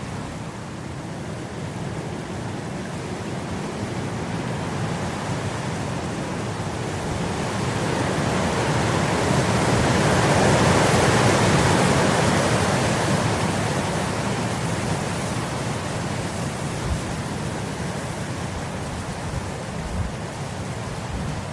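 Wind blowing across grass in one long gust that builds to a peak about halfway through and then eases off, with a couple of brief low knocks near the end.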